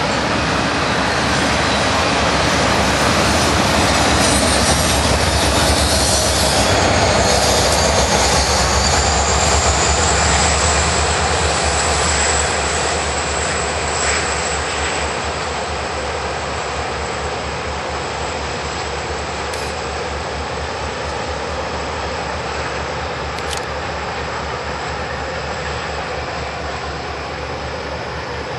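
Norfolk Southern diesel freight locomotives working hard upgrade, a loud steady drone of engines and rolling train that eases slightly after about twelve seconds. A thin high whine falls in pitch around eight seconds in and then holds steady.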